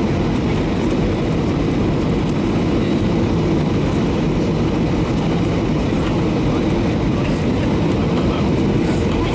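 Steady cabin noise inside a Boeing 737-800 airliner: the low, even rumble of its CFM56 engines and airflow, heard from a window seat, with no sudden changes.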